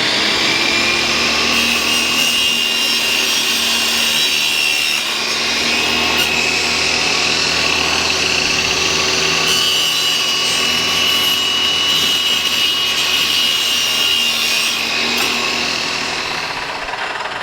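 Table saw running at speed with a steady high whine, ripping old wooden beehive frames into thin starter strips. The sound eases off near the end.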